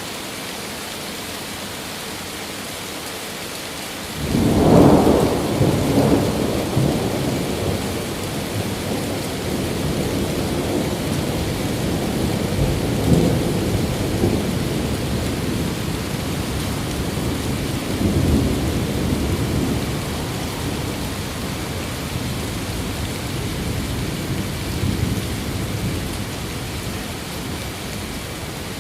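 Steady rain hiss, then about four seconds in a long thunder roll breaks in. The deep rumble swells again several times and slowly dies away over the rest of the stretch.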